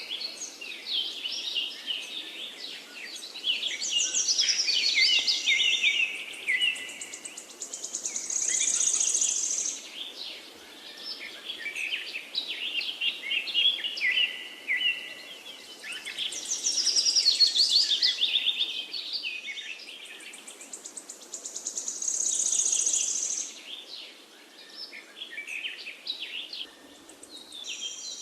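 Several songbirds singing together in a dense chorus of overlapping chirps and trills, with a high, fast trill coming back about every thirteen seconds.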